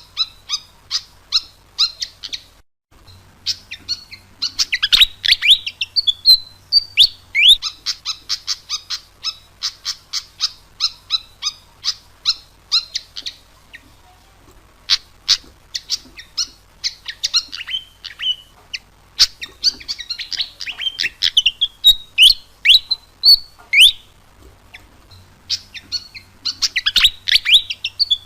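Sikatan kipas (fantail flycatcher) song played as a bird-lure recording: a rapid, continuous run of sharp chirps, several a second, mixed with short squeaky whistled notes that slide up and down, with one brief pause near the start.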